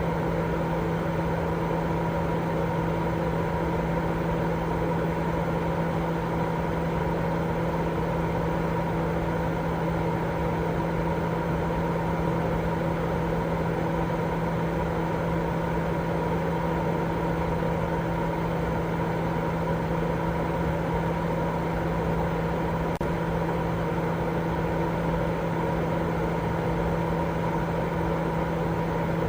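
Continuous baby-sleep white noise: an even, unchanging rushing hiss with a steady low hum running through it.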